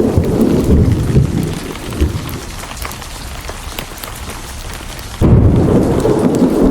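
Heavy rain with rolling thunder. The low rumble fades for a few seconds, then a loud new peal of thunder breaks in suddenly about five seconds in.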